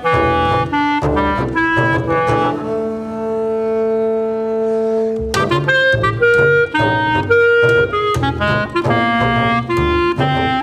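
Clarinet and double bass duo playing contemporary music: the clarinet plays quick runs of short, separate notes over low notes. About two and a half seconds in, one note is held for nearly three seconds, then the quick notes resume.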